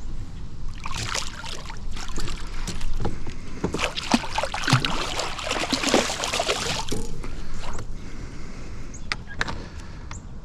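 Hooked channel catfish thrashing and splashing at the surface beside a kayak, a dense run of splashes from about a second in to about seven seconds in, then lighter water sounds with a few sharp clicks near the end.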